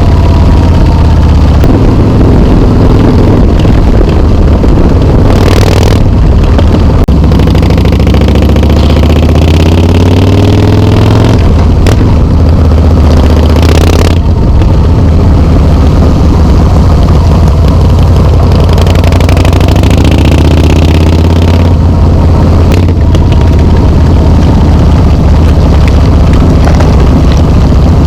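Harley-Davidson Softail Slim S V-twin running loud through Vance and Hines slip-on mufflers, its deep exhaust note rising and falling with the throttle, climbing in pitch in places.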